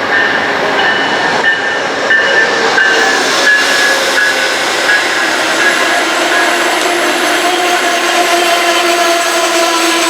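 A train passing close by: a loud, steady rush of wheels and engine with several steady high tones over it.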